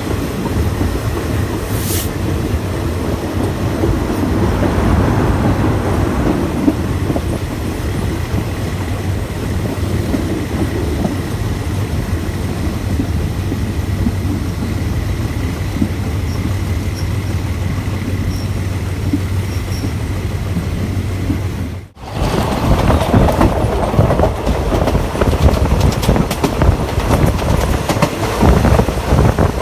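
Passenger train running along the track, heard from on board: a steady rumble of wheels on rail with a low hum and a single sharp click about two seconds in. Near the end the sound cuts abruptly to a louder, rougher rush of rolling noise and wind.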